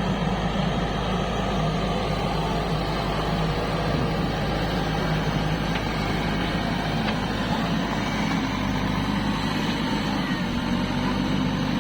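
Heavy diesel engine of a tractor or backhoe loader running steadily.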